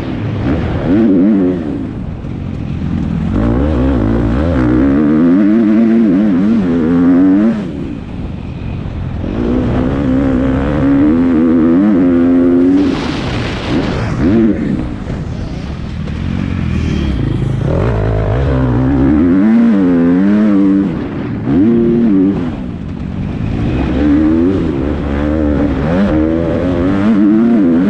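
Motocross bike engine revving hard and easing off over and over, its pitch rising and falling with the throttle as it is ridden round the track.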